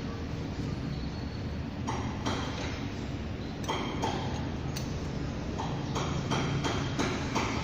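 Metal tools clinking and tapping against metal engine parts, irregular sharp strikes that come faster near the end, over a steady low hum.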